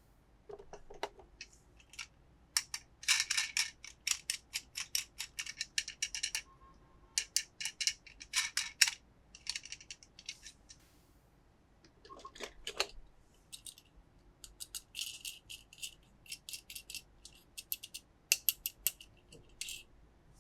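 Toys and their plastic packaging being handled: bursts of rapid sharp clicks and crackles, with a couple of duller scraping sounds about half a second in and about twelve seconds in.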